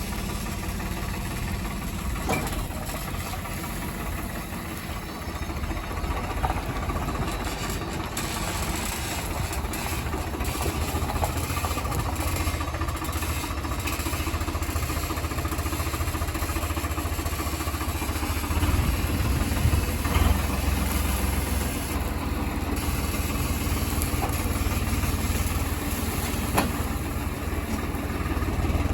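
Heavy diesel machinery engine running steadily with a deep rumble and a few brief knocks, getting somewhat louder about two-thirds of the way in.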